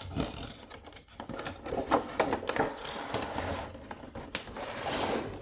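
Cardboard model box being handled and opened: a run of small knocks, taps and scraping rustles, with a longer sliding rustle near the end.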